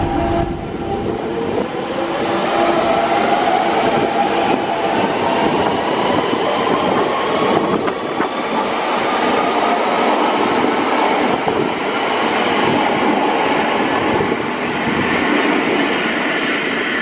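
London Underground 1992 Stock tube train pulling out of the platform. Its traction motors whine in several tones that climb steadily in pitch as it accelerates, over loud running and wheel noise.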